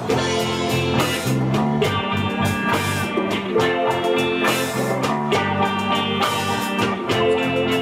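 Live band playing an instrumental passage: guitar over a repeating bass line and a steady drum beat.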